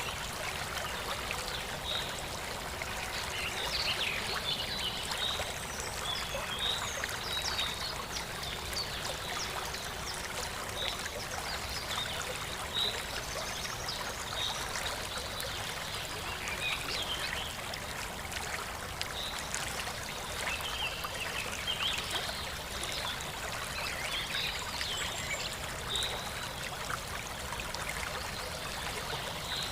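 Water trickling and flowing steadily, with many short high peeps scattered throughout.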